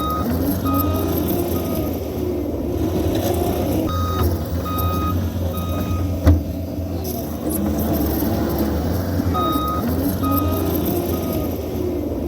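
Mini excavator's diesel engine running steadily under load while it grades, with a backup alarm beeping in sets of three, about three-quarters of a second apart, three times over. A single sharp knock sounds about six seconds in.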